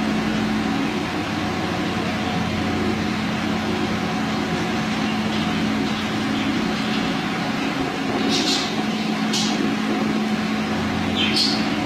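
Steady motor hum, like a fan or air cooler running, with several short high chirps in the last few seconds.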